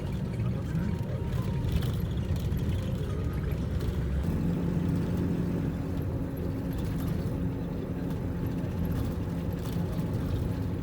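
Bus engine and road rumble heard from inside the moving bus; about four seconds in, a steadier engine hum sets in.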